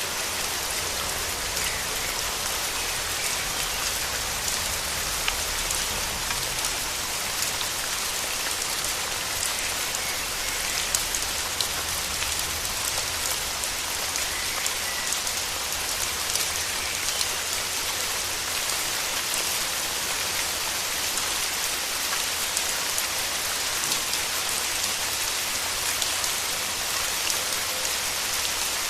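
Steady rain falling in a rainforest, with many individual drops ticking and a few louder drop hits standing out.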